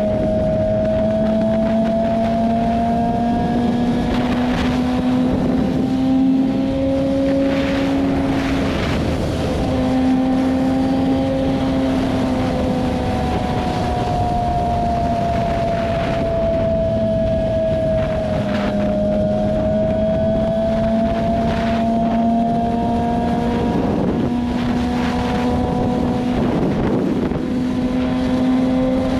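BMW S1000RR's inline-four engine running steadily while cruising at speed on a motorcycle, its pitch drifting slowly and dipping briefly a couple of times as the throttle eases. Wind rushing over the microphone.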